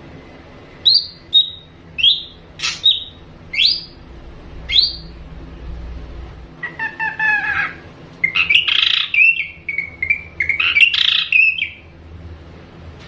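Ashy drongo song: a run of short, sharp sweeping notes roughly one a second, then a harsher call with several tones falling in pitch, followed by a rapid jumble of varied whistles and chattering notes.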